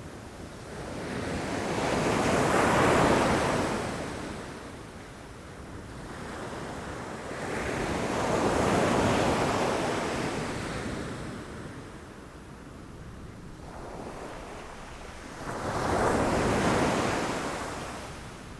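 Ocean waves breaking against rocks: three surges of surf, each building and washing out over a few seconds, about six seconds apart, over a steady hiss of sea.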